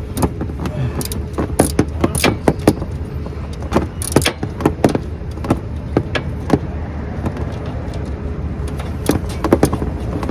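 Irregular metallic clicks and clinks of hand tools working at a Harley-Davidson's oil drain plug, over a steady low rumble.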